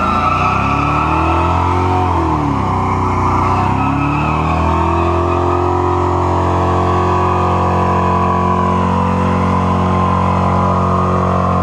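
Truck engine held at high revs during a burnout, tyres spinning. The revs dip and pick up again twice in the first few seconds, then hold steady.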